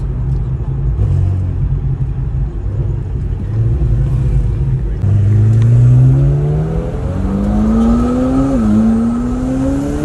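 McLaren 720S's twin-turbo V8 heard from inside the cabin: a low rumble at first, then about halfway through the revs climb steadily under acceleration. Near the end they drop sharply at an upshift and climb again.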